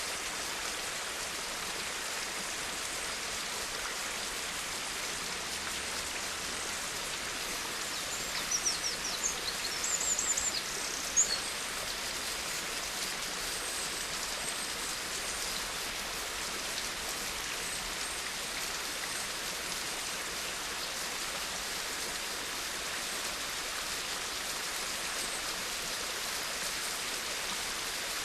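Steady rainfall, an even hiss of drops. A few short high chirps and one sharp tick stand out about a third of the way in.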